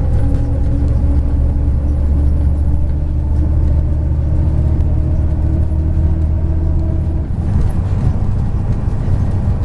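MAZ 103.562 bus's diesel engine and drivetrain while driving, heard from inside the cabin: a steady low drone with a whine above it. The engine note changes and drops a little after about seven seconds.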